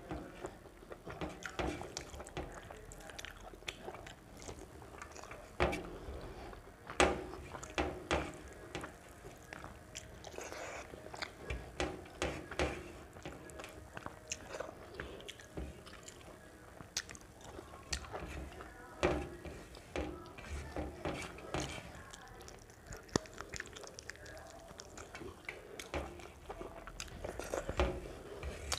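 Close-up eating sounds of a person eating rice and curry by hand: irregular chewing and wet mouth smacks, with short clicks as fingers mix the food on a steel plate.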